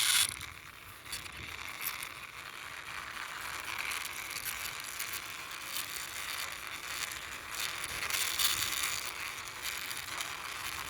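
Small plastic toy car pushed along by hand, its wheels rolling and rattling steadily with many small clicks, after a sharp knock at the start.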